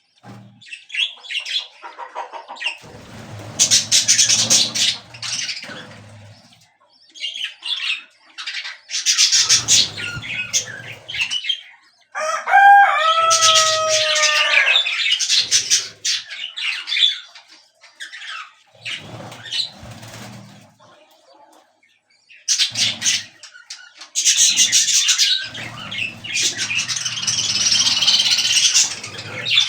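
Pet budgerigars chirping and chattering, with wing flapping, in bursts of a few seconds separated by short pauses. About twelve seconds in come a few louder bending calls.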